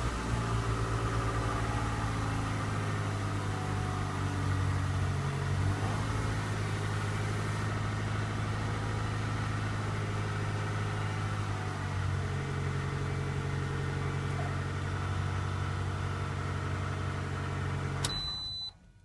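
2010 Toyota RAV4 engine idling steadily just after a cold start in freezing weather, running without trouble. About a second before the end it cuts off, and a high electronic chime follows.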